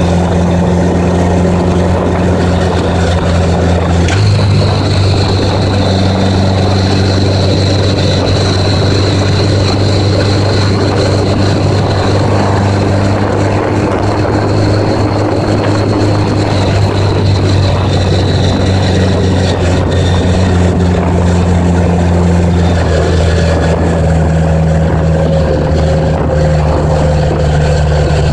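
1980s Honda Gold Wing motorcycle engine running under way, a steady drone. The engine note steps up about four seconds in and drops a little near the end.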